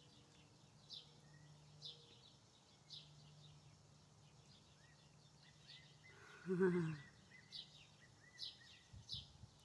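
Outdoor birdsong: a short, high, down-slurred chirp repeated about once a second, with fainter chirps between. A little past the middle comes one louder, lower call about half a second long that falls in pitch.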